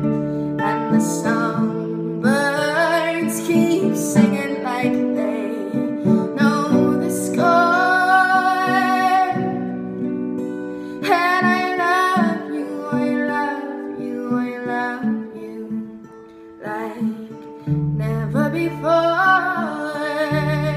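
A woman singing over acoustic guitar, with long held vocal notes between phrases.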